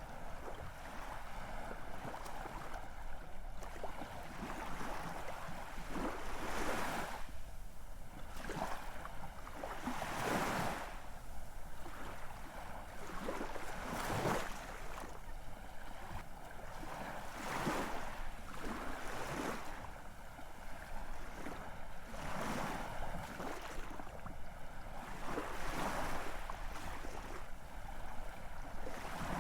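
Ocean waves washing onto shore: a steady hiss of surf with a wave surging in every three to four seconds.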